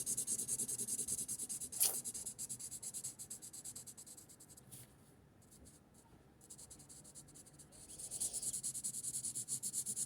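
Felt-tip marker scratching quickly back and forth on paper as an area is coloured in, with a light tap about two seconds in. The strokes die away for a couple of seconds in the middle, then start again.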